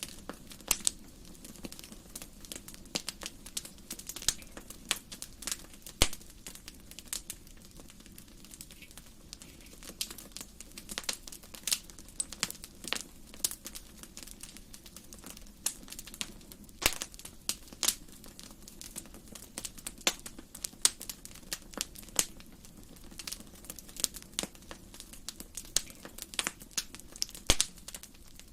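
Wood fire crackling in a fireplace: irregular sharp pops and snaps, some much louder than others, over a steady low sound of the flames.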